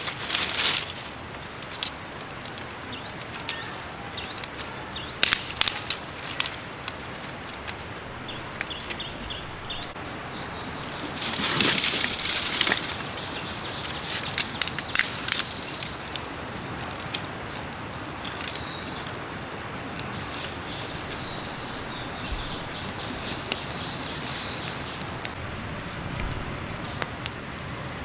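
Steady rush of a running creek, with bursts of close rustling and sharp clicks from things being handled, loudest in a patch about eleven to thirteen seconds in.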